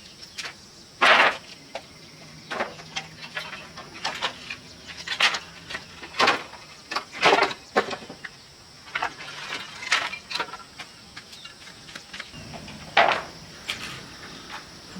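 Irregular short scrapes and knocks of hand work, about one a second, over a faint steady chorus of insects.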